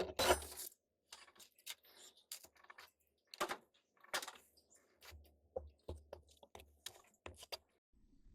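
Scattered light knocks, taps and clicks from hands and tools working on wooden boat flooring, with a louder clatter right at the start.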